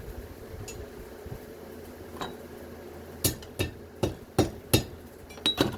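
Metal-on-metal knocks and clanks from scrap being worked or handled: a quick run of about eight sharp strikes in the second half, a few with a brief ring.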